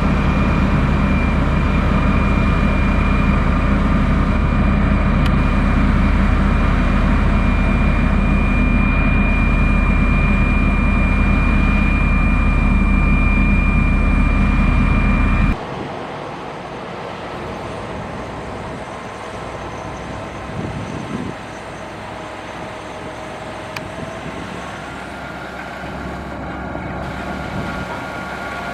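Heavy diesel engine of an earthmoving machine running steadily, with a low drone and a steady high whine. About halfway through the sound cuts suddenly to a quieter engine with a different pitch.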